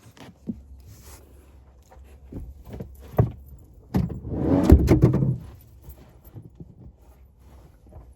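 Things being handled and moved about in a car's front interior: scattered knocks and clicks, with a louder, longer stretch of rattling about four to five seconds in.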